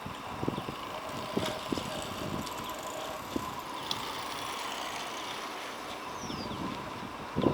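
Outdoor field ambience: a steady low noise with a faint steady hum. Short, faint, high chirps are scattered through it, and a single high whistle falls in pitch about six seconds in.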